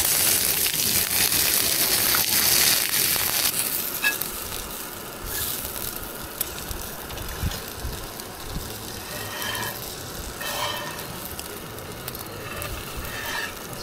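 Slices of black pudding sizzling in a cast-iron pan, loud for the first few seconds and then fainter, with light clicks and scrapes of a metal spatula and fork working in the pan.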